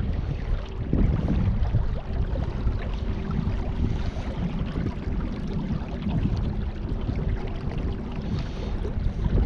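Wind rumbling on the microphone out on open river water, with a faint steady hum running under it from about a second in until near the end.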